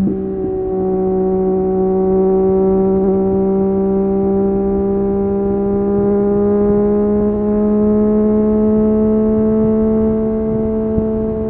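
Triumph Street Triple 765 RS inline three-cylinder engine through an Akrapovic exhaust, pulling steadily in one gear with its revs rising slowly.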